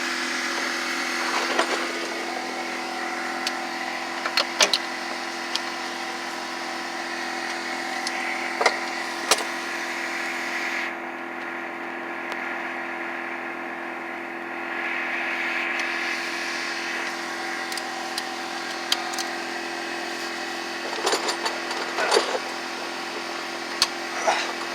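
Scattered sharp metallic clinks of a ratchet and socket working a stubborn bolt under a car, over a steady mechanical hum.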